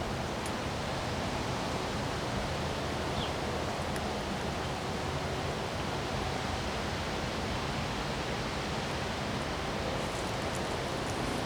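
Wind blowing steadily, a continuous rush with a deep rumble underneath.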